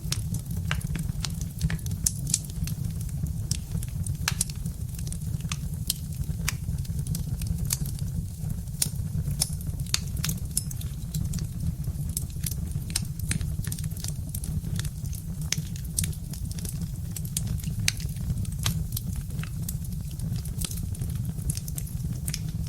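Birch-log fire crackling, with frequent sharp irregular pops and snaps over a steady low rumble.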